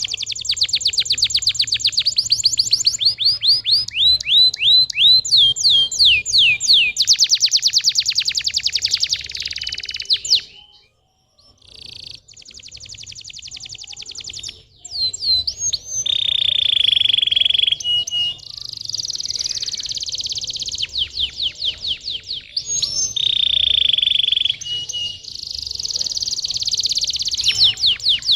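Domestic canary singing: fast rolling trills and runs of quickly repeated sweeping notes, with a short break about ten seconds in.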